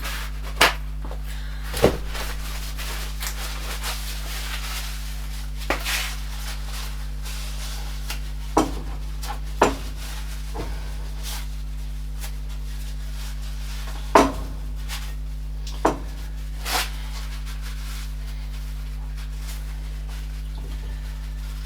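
Scattered knocks and clunks of objects being picked up and set down on a workbench, about eight in all and none after about 17 seconds, over a steady low hum.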